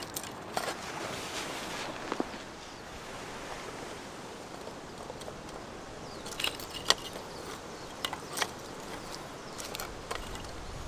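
Scattered light clicks and knocks, a few in quick succession about six and a half seconds in, over a steady outdoor hiss.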